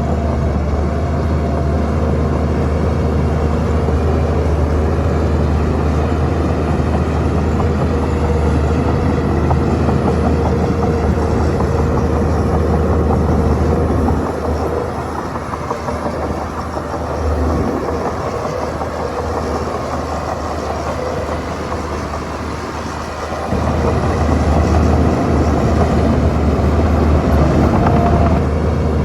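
Shantui bulldozer's diesel engine running heavily. It eases off and is quieter for about nine seconds midway, then picks up again.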